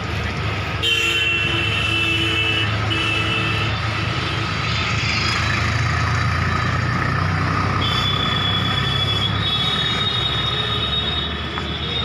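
A heavy vehicle's engine running with a steady low rumble, and a horn sounding several short held tones in the first few seconds, then one longer one from about two-thirds of the way in.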